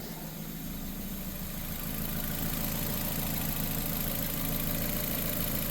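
2006 Nissan Sentra's 1.8 L four-cylinder engine idling steadily while warming up as its cooling system is burped after a water pump replacement.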